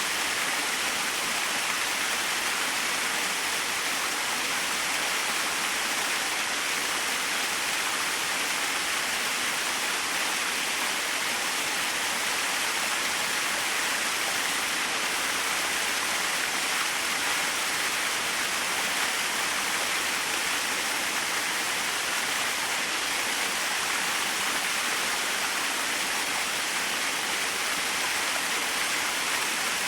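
Small waterfall splashing steadily, an even hiss of falling water with little low rumble.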